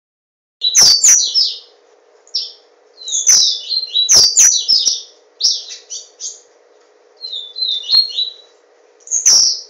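A papa-capim seedeater singing: loud, rapid phrases of high chirped notes, repeated in about six bursts with short pauses between them. A faint steady hum runs beneath.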